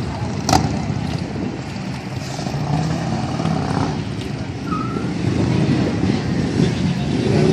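Harley-Davidson police motorcycles' V-twin engines running at low speed during slow manoeuvres, a steady rumble, with one sharp click about half a second in.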